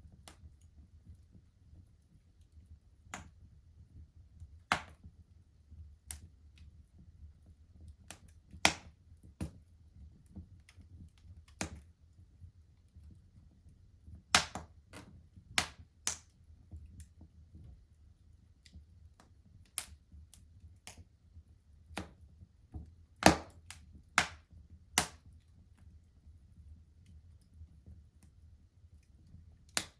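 Wood fire in a fireplace crackling, with irregular sharp pops and snaps at uneven intervals, a few much louder than the rest, the loudest about three-quarters of the way through, over a faint steady low rumble.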